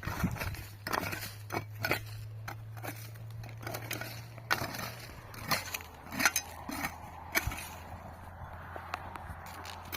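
Irregular scrapes and sharp knocks of hand tools working wet cement, over a faint low hum.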